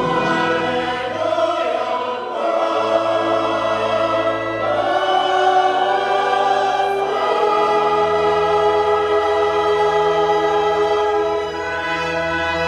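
Choir singing sustained chords over low instrumental bass notes that change every few seconds.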